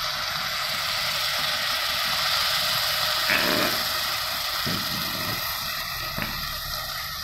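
Browned vegetables sizzling steadily in a hot stainless steel pot as tomato purée is poured over them, with a few short knocks of a wooden spoon from about the middle on.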